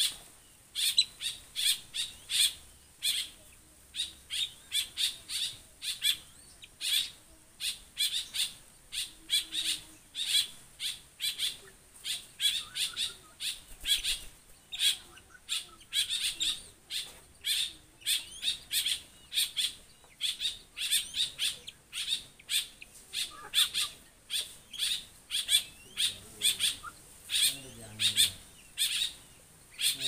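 A bird giving a long, unbroken series of short, sharp, high-pitched calls, evenly repeated about two to three times a second.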